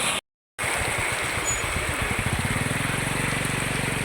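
A small engine running with a fast, even beat that comes in about two seconds in, over a steady hiss. The sound cuts out briefly just after the start.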